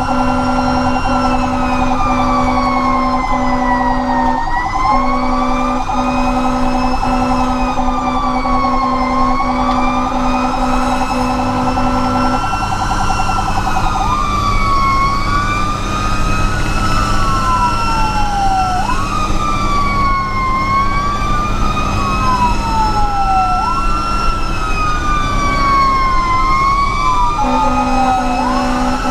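Fire engine's electronic siren wailing, rising and falling slowly every few seconds, over the truck's engine. About halfway through, a second siren with quicker falling sweeps joins for around thirteen seconds. A low pulsing tone sounds before and after it.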